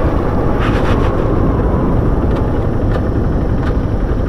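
Steady engine, road and wind noise from a vehicle on the move, with a few faint light knocks.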